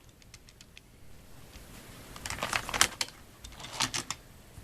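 Quick small plastic clicks and rattles from handling a Hot Wheels die-cast truck and its plastic track launcher, in two bursts: one about two seconds in and a shorter one near the end.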